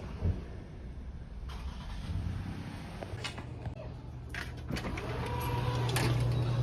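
Car being driven, heard from inside the cabin: a steady low engine and road hum that grows louder in the second half, with a few scattered clicks and knocks.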